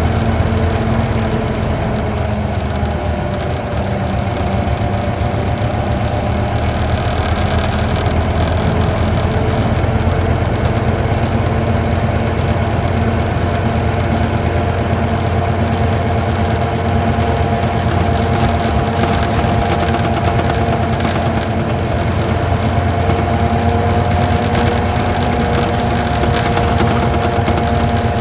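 Isuzu Gala coach's V-type diesel engine pulling steadily uphill under load, heard from inside the passenger cabin. Its tone holds steady, with slight rises in pitch a few seconds in and again near the end.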